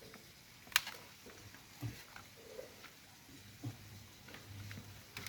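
Quiet room with scattered faint clicks and soft knocks, the sharpest a single click just under a second in, over a faint intermittent low hum.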